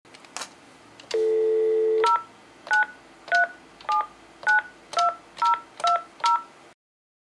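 Telephone dial tone for about a second, then nine touch-tone (DTMF) keypress beeps about half a second apart as a phone number is dialled.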